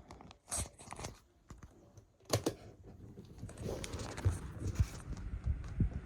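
Scattered sharp clicks and taps from a small desk fan being handled, with a few distinct ones in the first half, then a low irregular rumble with light knocks.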